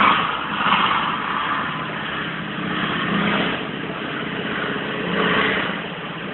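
Diesel engine of a tracked armoured vehicle running under load, its sound swelling and easing several times as it is driven.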